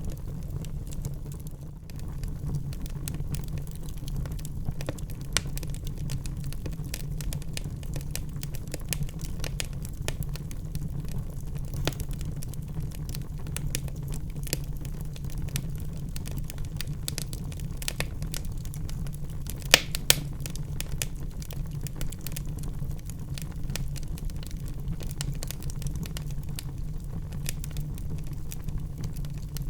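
Wood fire burning in a fireplace, crackling constantly over a steady low rumble of flame. Two sharper, louder pops come close together about two-thirds of the way through.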